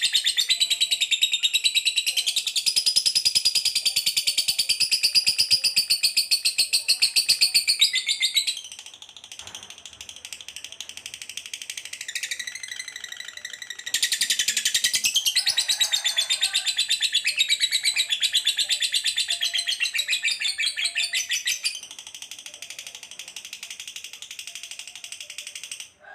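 Canary, lovebird and sparrow song mixed together: dense, rapid high-pitched trills in long phrases. It turns quieter about eight seconds in, comes back loud around fourteen seconds, and drops again near the end.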